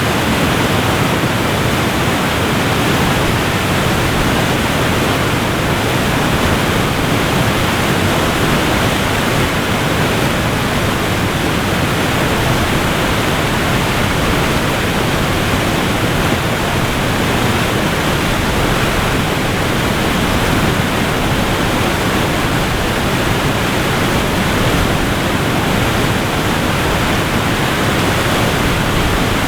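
Waterfall: falling water making a steady, even rush of noise that does not change.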